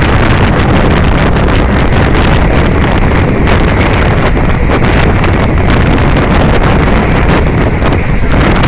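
Loud, steady wind buffeting the microphone, a continuous rumbling rush without a break.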